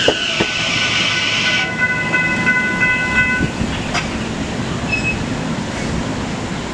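Long Island Rail Road Kawasaki M9 electric train moving through the station: running noise with a hiss that fades, then a steady high squeal of several tones for nearly two seconds, and a single click near the middle.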